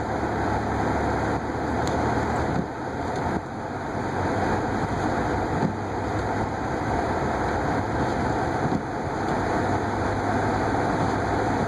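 Steady running noise of a car heard from inside the cabin while driving, with engine hum and tyre noise on snow-covered streets.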